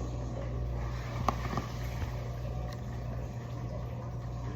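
Steady low drone of a semi-truck's diesel engine heard from inside the cab, with a single light click about a second in.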